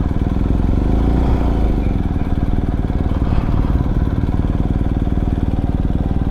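BMW R 1250 GS Adventure's boxer-twin engine running steadily, with the even pulsing of its firing strokes.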